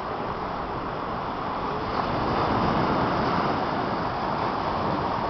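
Sea surf: a steady wash of waves that swells as a wave surges in about two seconds in.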